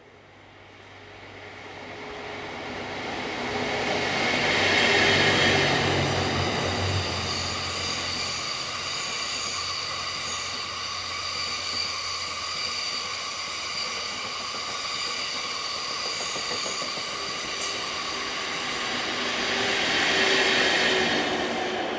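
Passenger train of series-26 coaches with an EF81 electric locomotive at each end passing by: the sound builds up to a first peak about five seconds in, holds as the coaches roll past with a steady high whine and a few clicks, and rises to a second peak near the end before fading.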